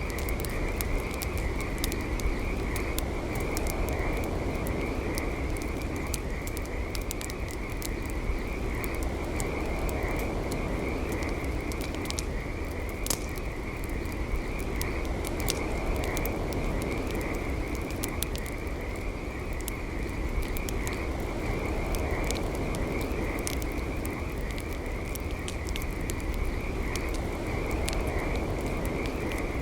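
Campfire crackling and popping in irregular sharp snaps over a low rumble, with a steady high trilling chorus from calling animals underneath.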